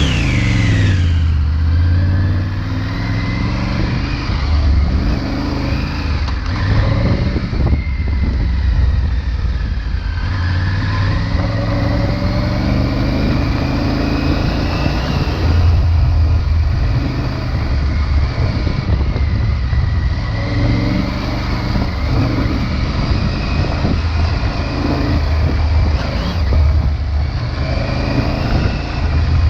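Triumph Tiger 900 Rally Pro's inline three-cylinder engine on its stock exhaust, ridden off-road with the revs repeatedly climbing and dropping as the throttle is opened and closed, over a steady low rumble.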